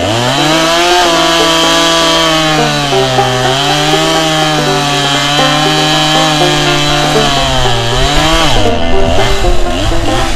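Chainsaw revving up sharply, then held at high speed, its pitch sagging briefly twice before it drops back near the end. Banjo music plays underneath.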